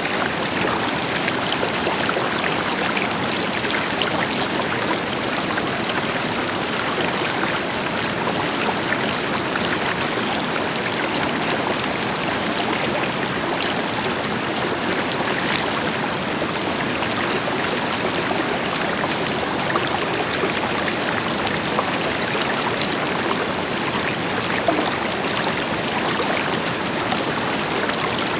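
River water flowing steadily over rocks, a continuous rushing with small splashes and gurgles, with a waterfall in the background.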